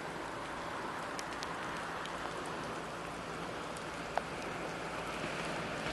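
Steady hiss of rain with scattered faint drop ticks, and one sharper tick about four seconds in.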